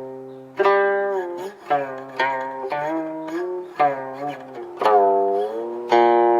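Guqin strung with steel strings being played: a slow run of plucked notes that ring and decay, many of them sliding up or down in pitch after the pluck.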